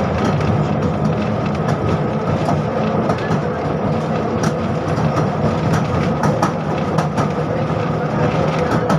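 A 71-605 (KTM-5M3) tram running along the track: a steady rumble and hum from its DK-259 traction motors, with many short clicks and knocks from the wheels on the rails.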